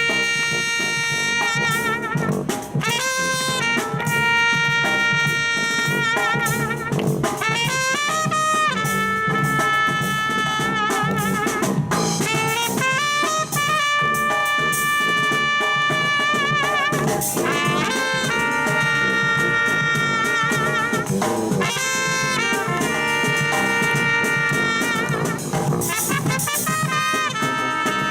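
Live brass band playing a tune: trumpets and trombones in held, phrased notes, some with vibrato, over a drum beat.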